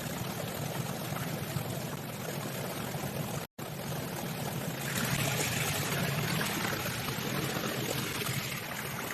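Steady heavy rain, an even hiss of falling water, briefly cut off about three and a half seconds in and a little louder and brighter from about five seconds in.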